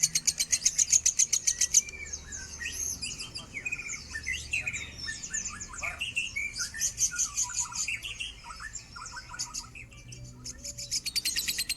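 Lovebird song: a rapid, even chattering trill of high chirps, broken off after about two seconds into a string of varied squeaky chirps and short whistled glides. The rapid chatter starts again near the end.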